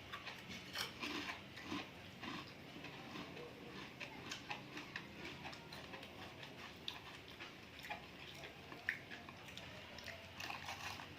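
Close-up mouth sounds of someone chewing sea grapes seaweed: scattered, irregular small clicks and wet smacks, with no steady rhythm.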